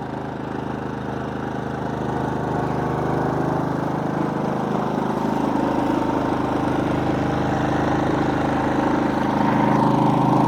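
Generac GP3300i inverter generator's engine running steadily under load from one RV air conditioner and a refrigerator, growing gradually louder with a further step up near the end.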